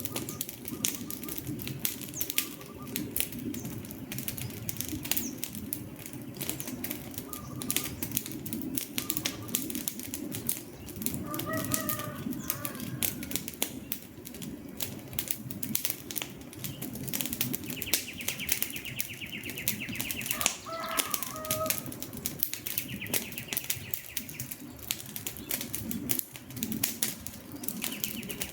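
Wood campfire crackling, with frequent sharp pops and snaps over a steady low rush of flame. A few short bird calls come through about 12 and 21 seconds in, and a high trilling sound is heard twice in the second half.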